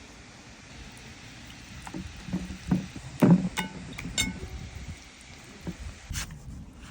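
A handful of knocks and clinks, a couple of them with a short metallic ring, clustered in the middle over a steady background hiss.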